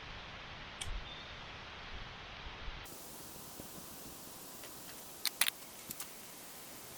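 Steady hiss of a camp stove and its pot of boiling water with dry udon noodles cooking. About three seconds in, the sound changes abruptly to a quieter background, and a few sharp clicks and taps follow near the end.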